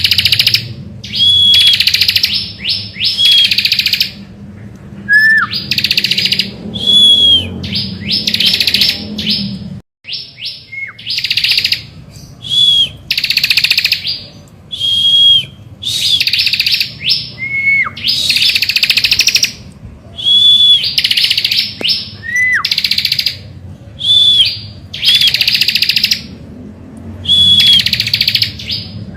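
Ciblek (bar-winged prinia) singing persistently. Each phrase is a short falling whistle followed by a loud, buzzy rattle, and the phrases repeat every second or two.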